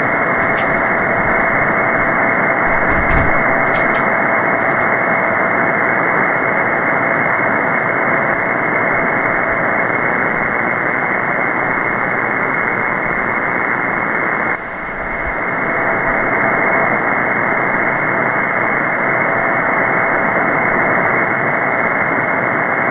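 Shortwave static from a software-defined radio on a 20-metre upper-sideband channel with nobody transmitting: a steady rushing hiss, cut off sharply above the voice range, with a faint steady whistle underneath. The hiss drops abruptly about 14 seconds in, then swells back.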